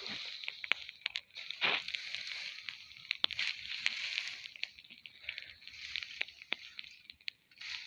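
A burning heap of partly damp cut grass: a steady hiss of flames with many sharp crackles and pops scattered through it.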